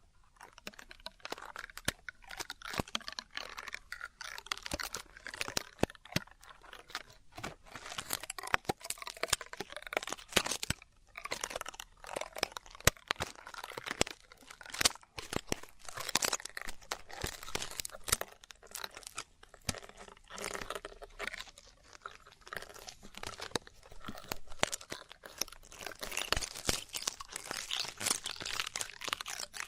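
Close-up ASMR ear-cleaning sounds: an ear pick scraping and rubbing in the ear, a dense run of crackles and scratchy clicks with brief pauses.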